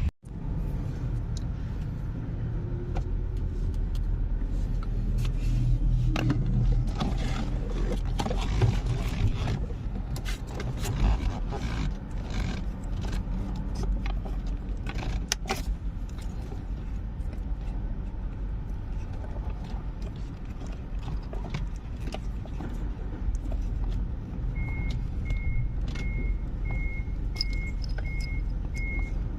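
A motor vehicle's engine running steadily with metallic clanks and rattles. In the last few seconds a reversing alarm beeps evenly, about twice a second.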